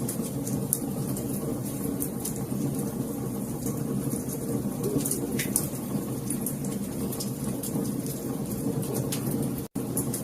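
Wood fire burning in a fireplace: steady low rush of the flames with frequent sharp crackles and pops. The sound cuts out for an instant near the end.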